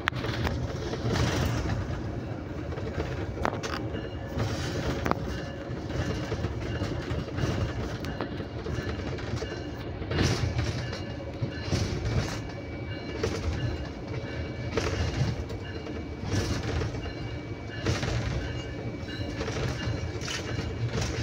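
Train running along the track, heard from the front of the leading locomotive: a steady rumble of wheels on rail with repeated clacks every second or two as the wheels cross rail joints.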